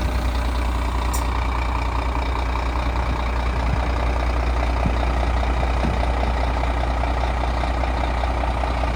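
Scania P380 dump truck's diesel engine idling steadily, with a light fast clatter that comes through more plainly from about halfway.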